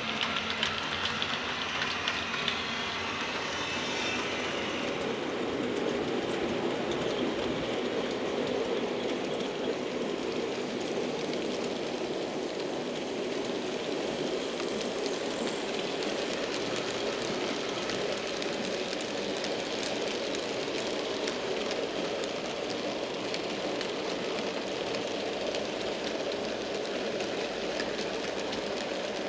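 HO-scale model train running along the track: a steady whirring of motor and wheels on the rails, with fine rapid clicking throughout.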